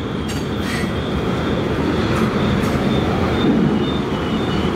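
Freight cars of a long train rolling past: a steady low rumble of steel wheels on rail, with a few clanks early on and faint, intermittent high-pitched wheel squeal as the cars take the curve.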